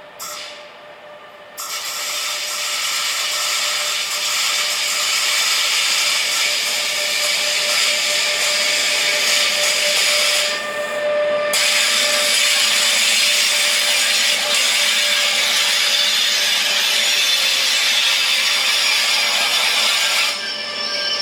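A passing train's wheels grinding and screeching against the rails: a loud, harsh rasp with a few steady squeal tones. It sets in about a second and a half in, dips briefly near the middle and falls away near the end.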